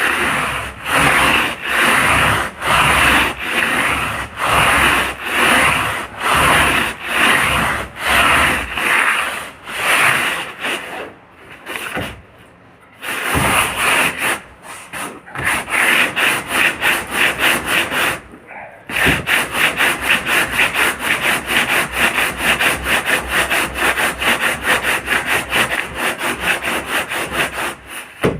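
A boat hull being sanded by hand with back-and-forth rubbing strokes, about two a second. The strokes stop briefly twice, then pick up again quicker, about three a second.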